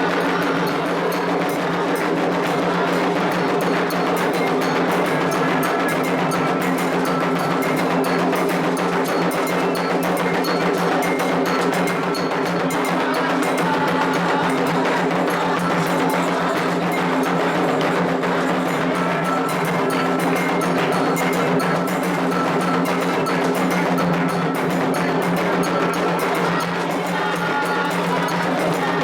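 Candomblé ritual drumming: atabaque hand drums and a struck bell keep up a fast, unbroken rhythm.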